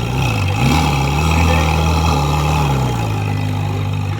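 Ferrari 458 Speciale Aperta's 4.5-litre naturally aspirated V8 idling. About half a second in it is revved, held at higher revs for about two seconds, then drops back to idle.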